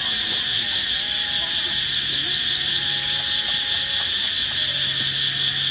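Dense chorus of crickets and other night insects, a steady high trill, with a few faint calls and voices in the background.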